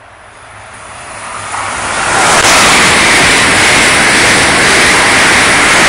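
Amtrak Acela Express high-speed electric trainset passing through a station at speed: a rush of wheel and air noise that swells over about two seconds, then holds loud and steady.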